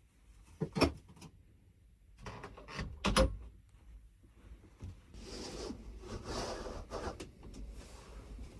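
Two wooden knocks, about one and three seconds in, then a few seconds of rubbing and scraping: things being handled.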